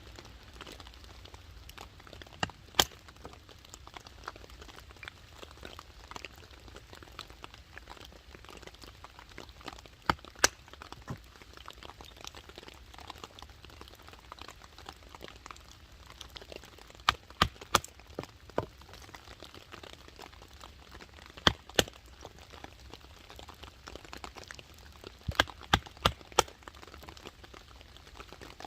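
Wood being chopped into small pieces for a camp stove: sharp cracking knocks in short groups of two to four, with pauses of several seconds between groups, over the steady patter of heavy rain.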